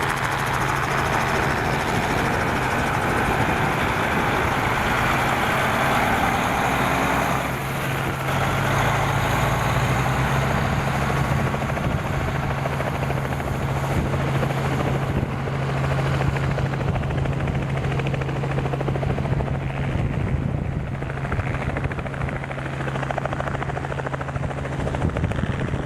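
Heavy truck's diesel engine running with a steady low drone. The sound shifts about seven seconds in, and the hiss fades from about fifteen seconds on.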